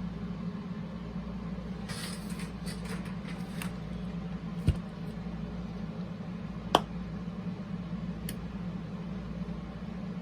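Clicks and light rattles of a cassette boombox's controls and mechanism being handled, with a sharper knock in the middle and two single clicks later on, over a steady low hum.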